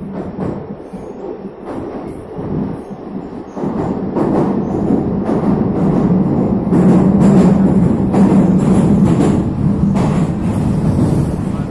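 Neva metro train running through the tunnel, its rumble growing louder as it picks up speed, with repeated wheel clicks over the rails.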